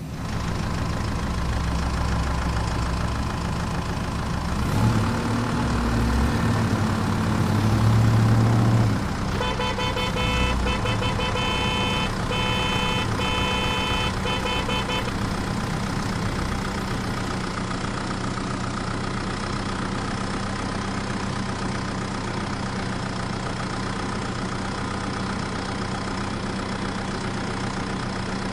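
An engine running steadily at idle, louder and rougher for a few seconds early on before settling. From about nine to fifteen seconds in, a pulsing high beeping tone sounds over it.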